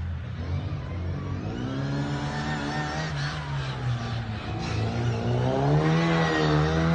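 Classic Mini rally car's engine under hard acceleration, its pitch climbing, easing briefly around the middle, then climbing again near the end.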